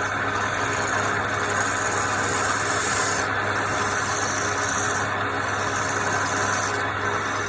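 Wood lathe running with a tool or abrasive working against the spinning wood; a steady motor hum under a scraping hiss that comes and goes in about three passes.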